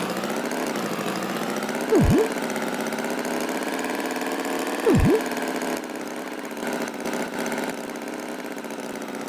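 Cartoon farm tractor engine running steadily at idle, with two loud, short swooping tones about two and five seconds in that dive low and spring back up.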